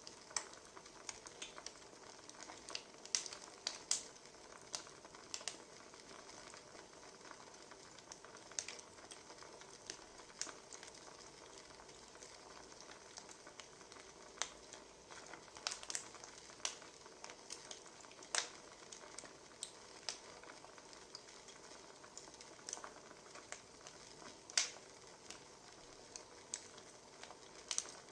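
Wood fire crackling: a soft steady hiss with irregular sharp pops and snaps.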